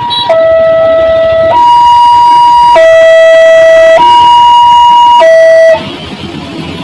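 Electronic two-tone siren alternating between a low and a high note about every second and a quarter. It cuts off abruptly near the end.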